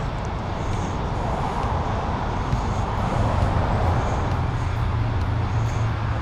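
Car engine running, a steady low rumble that grows somewhat stronger in the second half.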